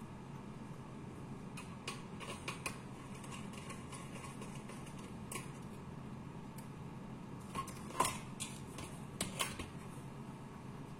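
Steady hum-like background noise with scattered light clicks and knocks: a few about two seconds in, a louder one about eight seconds in, and a couple more shortly after.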